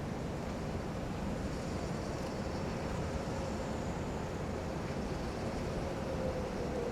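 Diesel freight locomotive ND602 running with a container train: a steady low rumble with a faint droning tone that dips slightly in pitch near the end.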